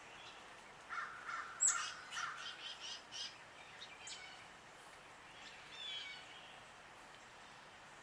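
Birds calling: a few harsh, crow-like calls about a second in, overlapped by a quick run of sharp, higher notes at about four a second. A couple of single chirps follow.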